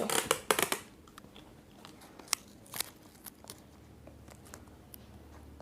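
Sellotape pulled off the roll with a loud crackle in the first second, then a few light clicks and taps as the tape is handled and pressed down.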